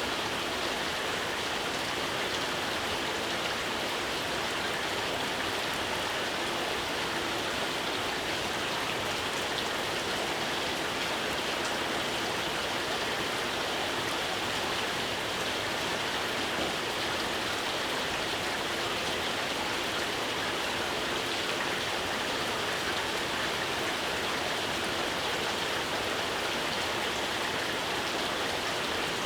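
Steady, gentle rain falling, an even hiss with fine patter of drops and no breaks.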